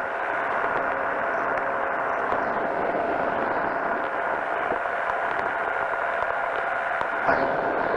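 Powered parachute engine and propeller running steadily in flight, a constant drone with a steady hum in it and a brief louder blip near the end.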